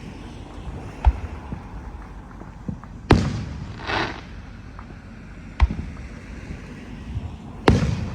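Fireworks going off: four sharp bangs, the second and fourth the loudest, each of those two followed about a second later by a short hissing burst.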